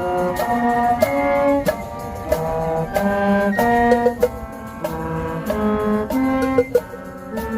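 High school marching band playing: the brass section holds a run of loud chords that change about every half second, with drum strikes punctuating the notes.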